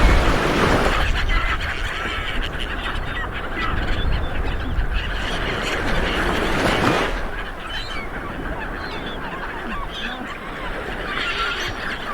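Waves breaking on a beach, surging at the start and again about seven seconds in, with birds calling repeatedly overhead.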